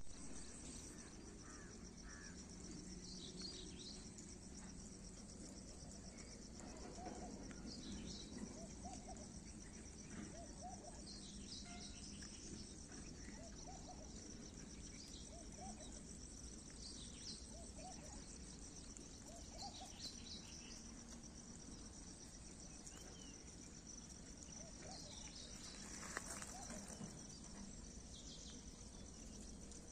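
Faint, steady high-pitched insect trilling, with short chirping calls scattered through it and a low steady hum underneath.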